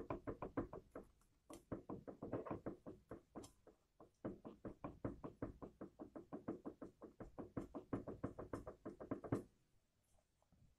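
Rapid metallic knocking from a front driveshaft CV joint being rocked back and forth by hand, about five or six knocks a second in a few runs, stopping about nine and a half seconds in. The clacking is the joint's free play, which the dealer judged large enough to replace the whole driveshaft assembly.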